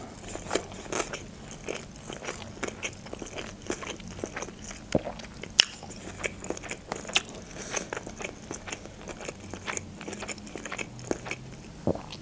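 A person chewing a mouthful of food close to the microphone: irregular wet mouth clicks and small crunches, several a second.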